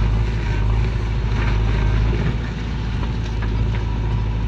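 Heavy diesel engine of the loading machinery running steadily with a deep low hum, with a few faint light knocks in the second half.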